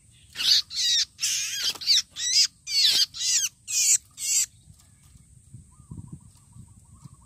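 Trapped red-headed babbler giving a rapid series of about ten harsh distress calls while being handled, over the first four and a half seconds. After that come only soft rustling and a faint thin tone.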